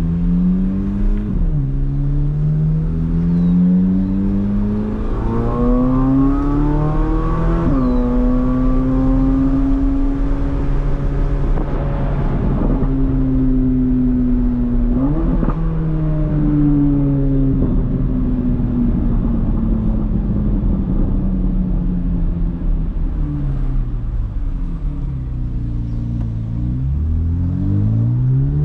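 2024 Corvette C8 Z06's 5.5-litre naturally aspirated flat-plane-crank V8 accelerating. Its note climbs and steps down sharply at each of three upshifts, then falls slowly as the car eases off, and climbs again near the end.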